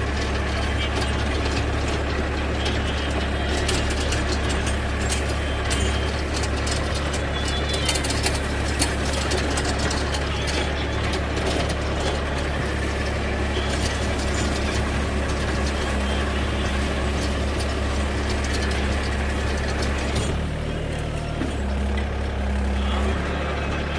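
Force Orchard mini tractor's diesel engine running steadily while it drives a rotavator, with many sharp clicks and rattles over the engine note. About twenty seconds in, the engine note dips lower for a few seconds.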